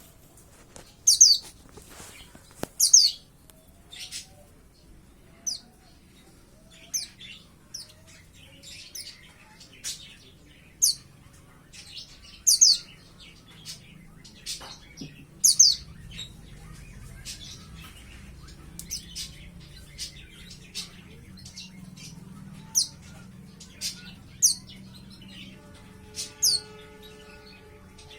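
A young white-eye (pleci), about five months old, calling in short, high chirps every second or two, a few of them much louder than the rest.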